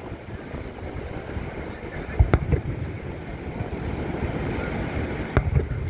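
Two firework shell bursts, sharp booms about three seconds apart, over a steady low rumble of wind and surf.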